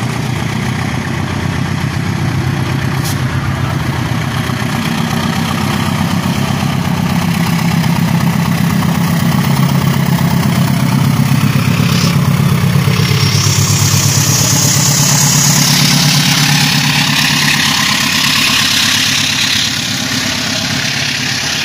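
Diesel-electric locomotive hauling a long-distance passenger train slowly away from the station. Its engine rumble builds as it passes and is loudest around the middle. From just past halfway a high hiss of the coaches' wheels on the rails joins in, easing off near the end.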